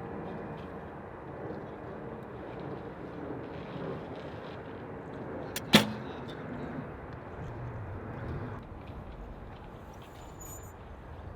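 A recurve bow being shot: one sharp snap of the string on release about halfway through, with a brief ring after it, over steady wind noise.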